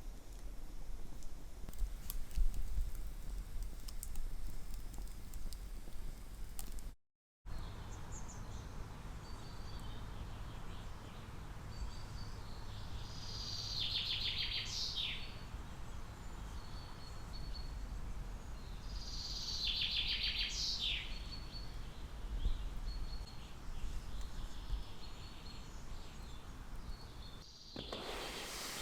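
Woodland songbird singing: short high whistled notes and, twice, a louder falling trill about six seconds apart, over a low steady rumble.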